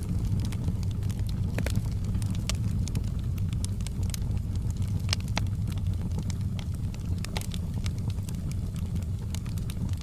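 Wood fire in a fireplace burning with a steady low roar, with frequent irregular crackles and sharp pops of burning logs.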